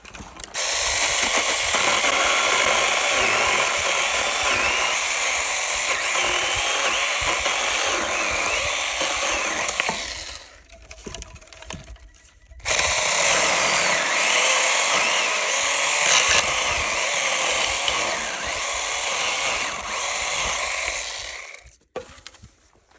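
Small cheap battery-powered mini chainsaw running and sawing in two long runs of about ten seconds each, with a short pause between them; its motor whine wavers as it works.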